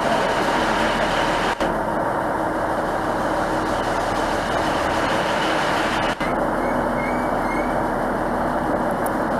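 A train running at a station: a steady mechanical rumble with a faint steady whine. The sound drops out for a split second twice, about one and a half seconds in and about six seconds in.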